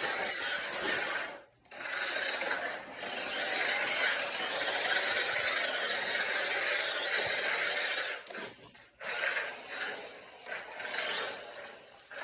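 Spin Master mini Grave Digger RC monster truck, rebuilt to run faster, with its small electric motor and gearbox running at speed as it drives. It stops briefly about a second and a half in and again around eight and a half seconds.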